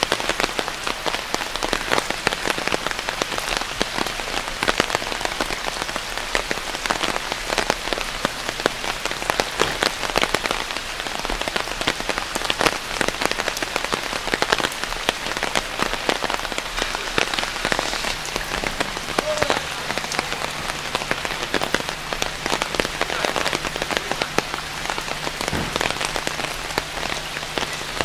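Steady rain with a dense patter of drops close by. A faint low hum joins about two-thirds of the way through.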